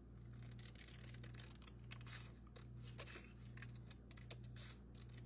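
Faint, scattered rustles and small clicks of paper being handled and cut, over a steady low electrical hum.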